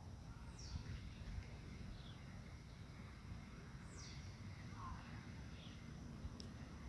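Faint birdsong in a forest: a few high calls that slide down in pitch and some short chirps, spaced a second or more apart, over a low steady rumble.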